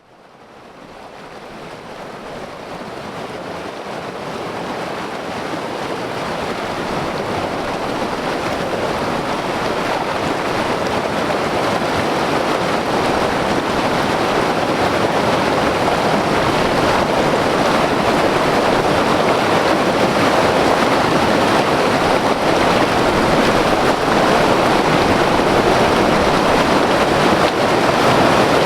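White-water river rushing over rocks, a dense steady roar of water that fades in over the first several seconds.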